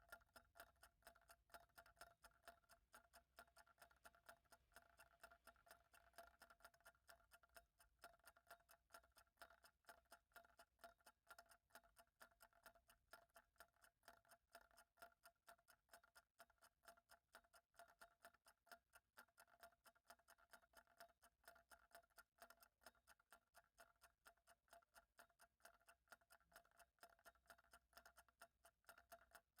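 Faint clock ticking in a steady, even rhythm.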